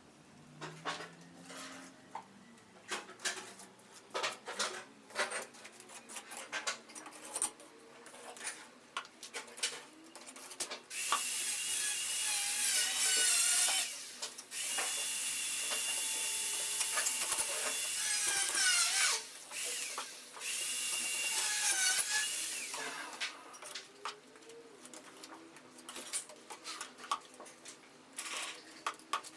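Scattered knocks and scrapes. Then, about a third of the way in, a handheld power tool runs loudly with a high, wavering whine in three bursts over about twelve seconds. The knocks and scrapes then return.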